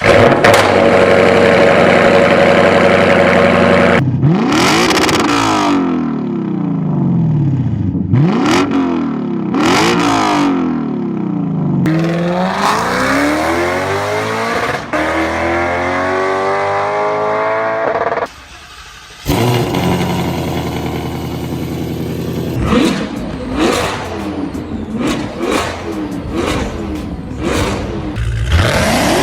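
Several different car engines heard through their exhausts, one after another: steady high-revving running, then repeated revs that rise and fall, then one long rising acceleration. After a brief quieter stretch there is a steady idle, then a run of quick, sharp revs with crackling.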